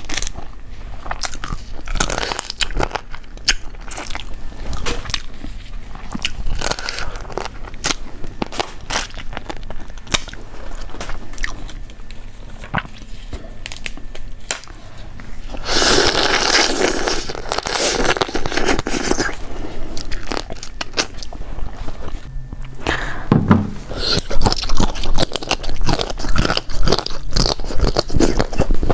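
Close-miked eating sounds: a person crunching and chewing food with many sharp crackling bites, a louder, noisier stretch about halfway through, and busier crunching near the end.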